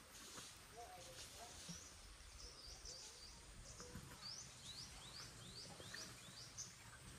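Quiet rural ambience with a bird calling: faint scattered chirps, then a quick run of about seven short, high chirps a little after four seconds in.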